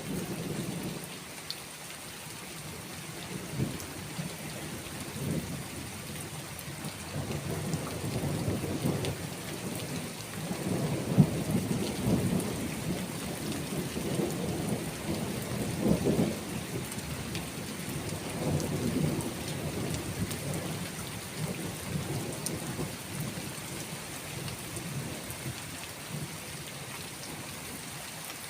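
Steady rain with rolling thunder. The rumble builds from about a quarter of the way in, is loudest in the middle, and dies away in the last few seconds, leaving only the rain.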